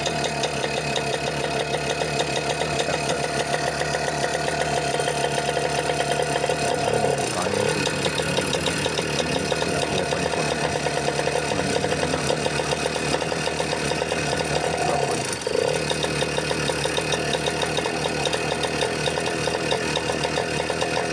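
TVS Scooty ES scooter engine idling steadily on a freshly cleaned carburettor, its air intake controlled by hand. Its note shifts briefly about three times but it does not pick up speed, a fault still to be found.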